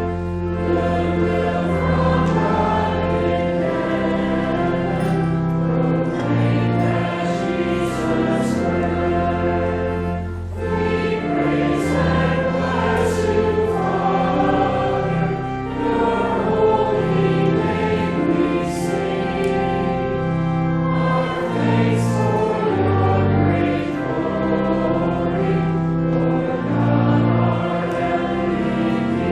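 A congregation singing a liturgical hymn of praise together, with instrumental accompaniment holding long bass notes that change every second or two.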